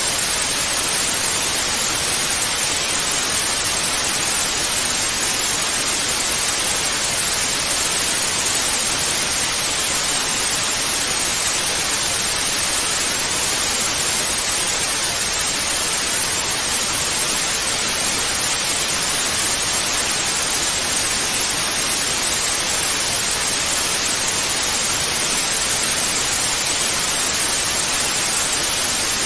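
Analogue TV static: a steady, even hiss of white noise that does not change.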